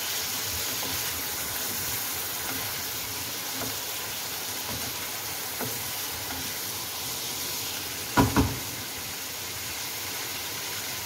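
Prawns frying in hot oil in a karahi, a steady sizzle while the water they release cooks off. About eight seconds in, two sharp knocks in quick succession stand out above the sizzle.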